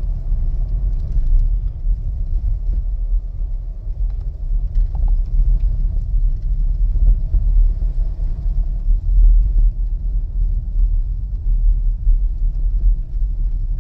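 Steady low rumble inside the cabin of a 2025 Ford Explorer Active driving on a snowy, icy road: tyre and road noise of the moving SUV.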